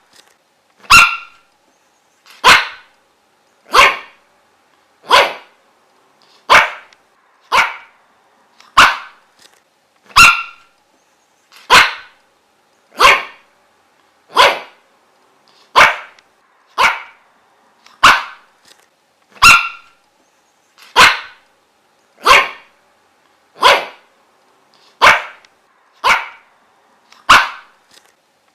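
A dog barking single, sharp barks at an even pace, about one every second and a half, with silence between barks.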